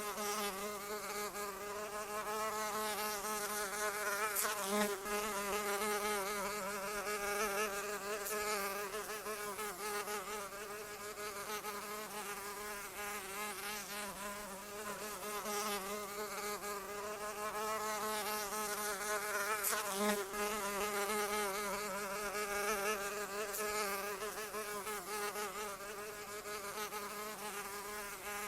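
A flying insect's wings buzzing steadily. The pitch wavers slightly, and the loudness swells and eases over a few seconds, as the buzz grows louder around 4 to 9 seconds in and again around 18 to 23 seconds in.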